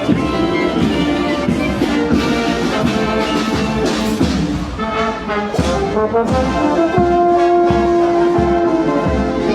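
Brass marching band playing in the street, with drum hits under the brass and a long held note about seven seconds in.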